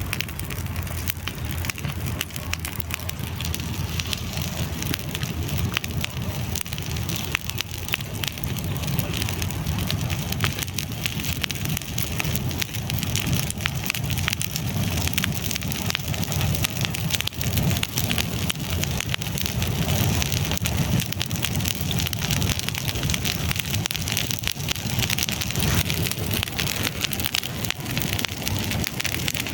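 Wood campfire burning and crackling steadily, with a dense stream of small pops over a low rumble.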